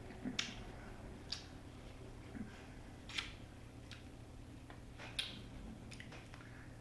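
Faint mouth clicks and lip smacks from someone tasting a sip of beer: about half a dozen short, irregular clicks over several seconds, over a low steady hum.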